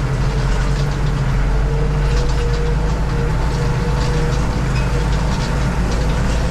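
Tractor engine running steadily under load while pulling a grass harrow across a field, with a steady low hum and a faint steady whine above it.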